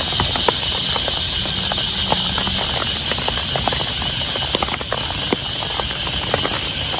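Heavy rain falling in a steady hiss, with louder drops tapping at irregular intervals.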